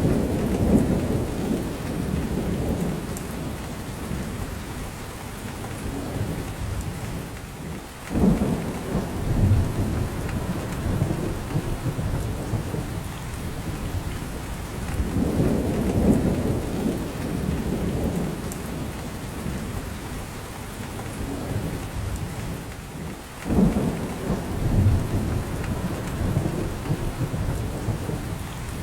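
Steady rain falling in a spruce forest, pattering on branches with drops falling from them, under low rumbles that swell and fade every several seconds; two of them come in abruptly.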